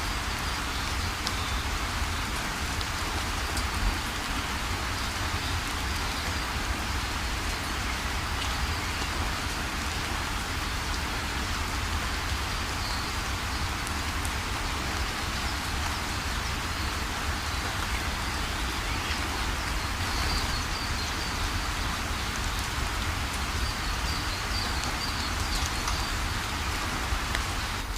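Heavy rain pouring steadily, with scattered drops ticking through the steady hiss.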